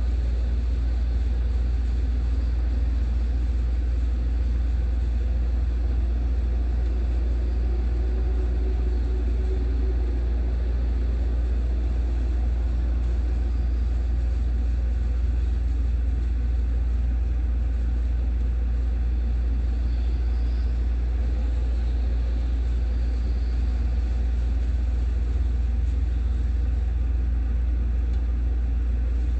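Steady low rumble, unchanging throughout, with no sharp claps or breaks.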